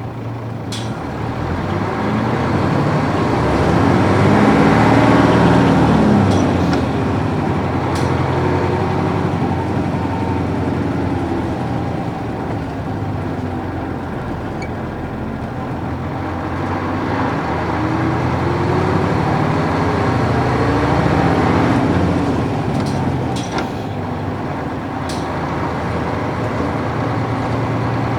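Nissan Diesel U-UA440 city bus's PF6 diesel engine pulling the bus along, its note rising as it accelerates and dropping back at gear changes of the 5-speed manual gearbox, twice. A few short clicks are heard over it.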